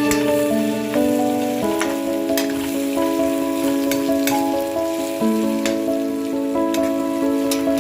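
Sabzi sizzling as it fries in a pan, with a few sharp clicks of a spoon against the pan as it is stirred, under background instrumental music of held notes changing every second or so.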